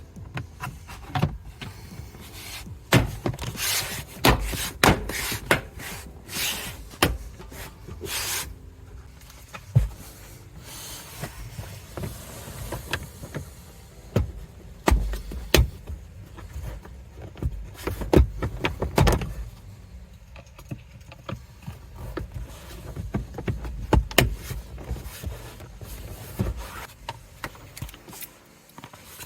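Irregular clicks, knocks and rubbing from hands working on plastic interior trim inside a vehicle, with several sharper knocks scattered through.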